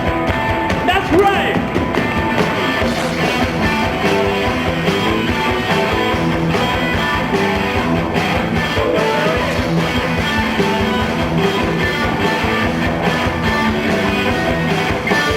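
A rock band playing live: electric guitars and drums in an instrumental intro.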